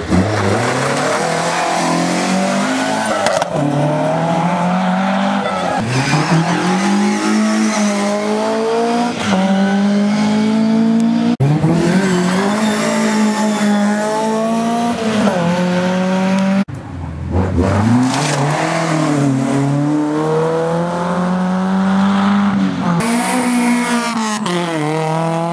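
Rally cars driven flat out on a stage: engines rev hard, the pitch climbing through each gear and dropping at every change. The sound cuts abruptly from one car to the next several times.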